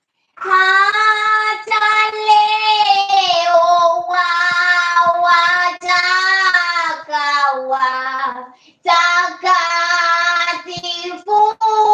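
A single high voice singing unaccompanied, holding long notes in phrases. It comes in about half a second in and breaks off briefly about nine seconds in.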